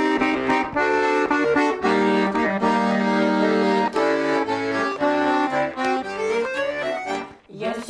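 Garmon (Russian button accordion) playing the instrumental introduction to a folk song, with sustained chords and a rising run of notes near the end, then a brief break before the song begins.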